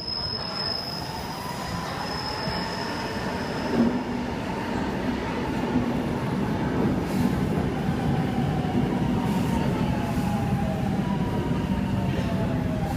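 AnsaldoBreda Leonardo metro train pulling into an underground station, its rumble building after a thump about four seconds in. Several whining tones glide downward later on, as the motor inverters whine while it brakes.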